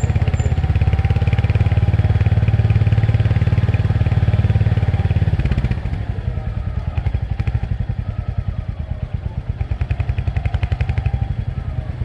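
Royal Enfield Hunter 350's single-cylinder engine running under throttle; about six seconds in it drops to a quieter, slower, evenly pulsing beat as the throttle comes off.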